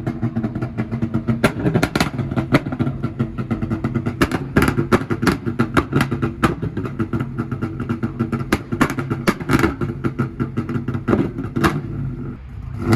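Pickup truck's engine held on a two-step launch limiter: a steady engine note broken by repeated sharp pops and bangs, a few a second, as the limiter cuts ignition.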